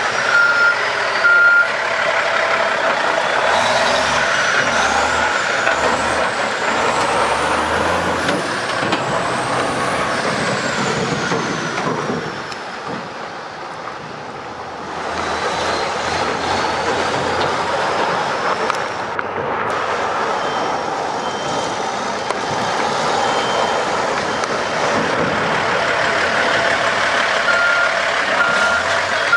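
1996 International dump truck running, its reversing alarm giving short repeated beeps in the first second or two and again near the end.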